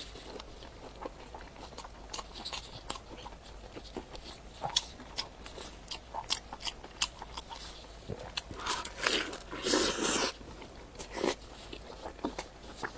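Close-miked eating sounds: chewing and biting with many sharp, wet mouth clicks, and a louder noisy stretch of chewing about nine to ten seconds in.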